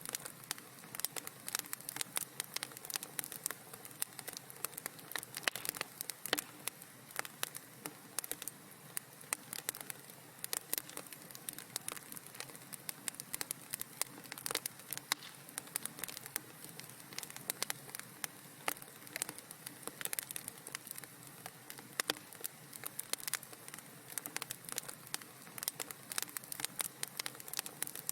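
Fire crackling in a fireplace: many small, irregular pops and snaps, several a second, over a soft steady hiss.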